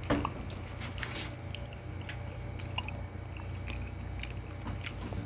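Close-up mouth sounds of eating by hand: chewing and lip smacks on rice and soft pressure-cooked balbakwa stew, with small scattered clicks. A low steady hum runs underneath.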